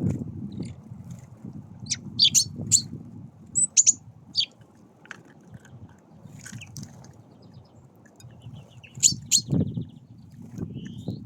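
Small birds at a feeder chirping in short, sharp calls, bunched about two to four seconds in and again near nine seconds, with a brief buzzy rising note near the end. A low rumbling noise runs underneath.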